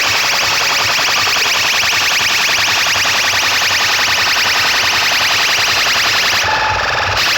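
Loud, distorted electronic alarm-like horn tone with a fast pulsing, blasted through large DJ speaker stacks in a sound-system competition. Near the end it cuts briefly to a thinner tone for about half a second before the full sound comes back.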